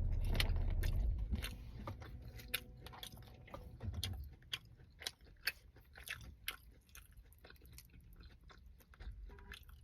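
Close-up chewing and biting of food, with many small crunchy clicks from the mouth. A low hum stops about a second in.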